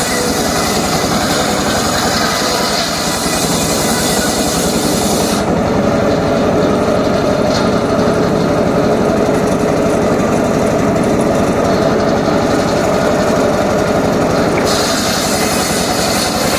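Homemade circular saw rig running steadily, cutting up johar wood, with a fast even pulse underneath. The high hiss falls away about five seconds in and returns near the end.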